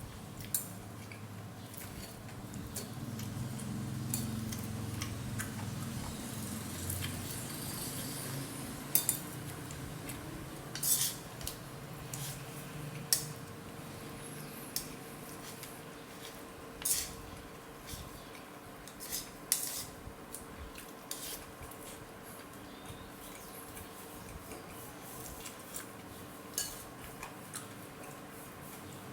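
Eating utensils clinking against a soup bowl while eating: irregular sharp clinks a second or two apart over a steady background hum.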